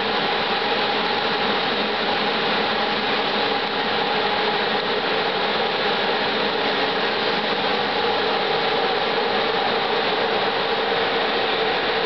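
Passenger train arriving, the steady noise of its wheels and running gear on the rails, with faint steady tones underneath.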